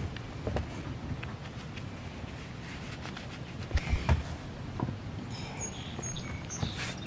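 Scattered knocks, rustles and footsteps of a person moving about and handling gear, with a few louder thumps about four seconds in. Faint high chirps come in the second half.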